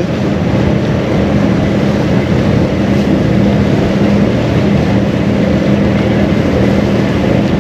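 Car ferry's engines running in a steady, unbroken drone with a constant low hum, over the rush of wind.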